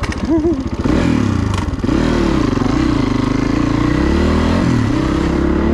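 Dirt bike engine running under way, its note dipping and rising with the throttle over the first two seconds, then settling into a steadier pull that wavers slightly. A single sharp knock comes about a second and a half in.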